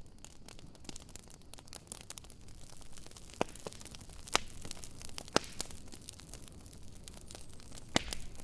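Wood fire crackling, a steady patter of small crackles broken by sharper pops: three about a second apart near the middle and one more near the end.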